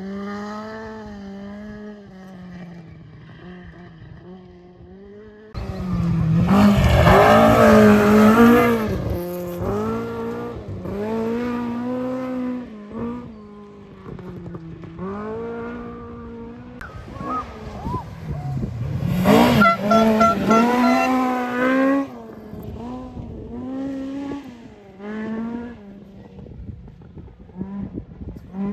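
Rally car engine at racing revs, its pitch repeatedly climbing and dropping with gear changes and lifts, growing loud as the car comes close about six seconds in and again around twenty seconds in.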